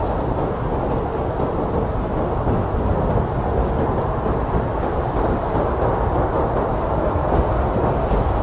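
Blizzard wind blowing hard and steadily: a deep, dull rushing noise with no separate gusts or impacts standing out.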